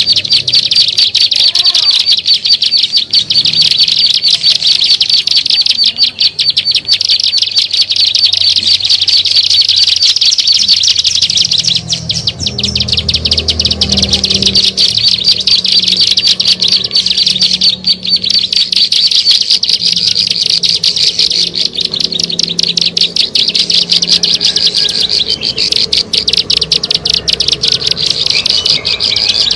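Ciblek sawah (a prinia) song played as a bird-trapping lure call: a continuous, very fast, high-pitched chattering trill without pauses.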